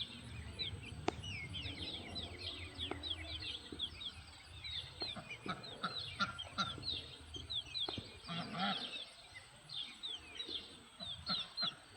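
A pen full of young poultry peeping nonstop: many short, high peeps that drop in pitch and overlap one another, with a couple of sharp clicks about a second in and near the eighth second.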